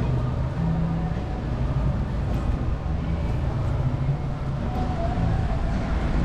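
A motor vehicle's engine running with a steady low hum and rumble, in continuous city street noise.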